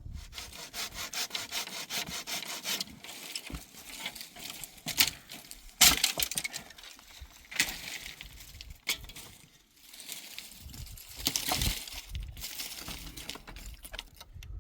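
Wood being hand-sawn in runs of quick, rasping strokes, broken by several sharp knocks in the middle.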